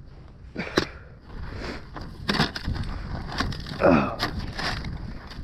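Sticks and fallen branches cracking and snapping underfoot in a string of irregular sharp snaps, with one short falling creak or groan about four seconds in.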